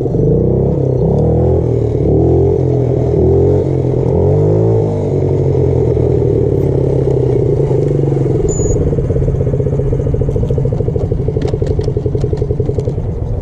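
Small motorbike engine running, its revs rising and falling over the first five seconds, then settling into a steady pulsing run.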